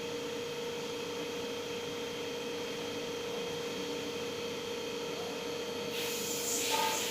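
Steady background hum with a constant tone, like mains or equipment hum in a room. Near the end comes a brief soft rubbing hiss, like something being handled.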